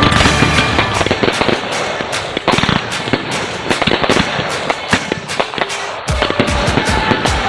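Consumer fireworks going off in quick succession: a dense run of sharp pops and crackling reports, several a second, over a music soundtrack.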